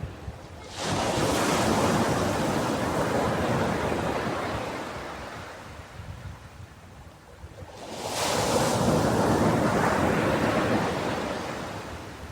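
Ocean waves breaking on a beach: one wave crashes in about a second in and slowly washes out, and a second breaks about eight seconds in and fades.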